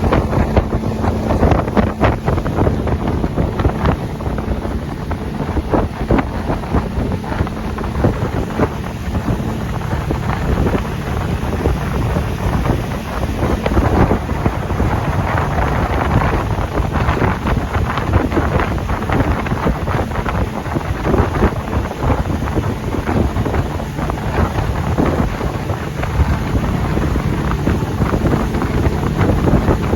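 Wind buffeting the microphone aboard a boat under way, over a steady rush of motor and water noise.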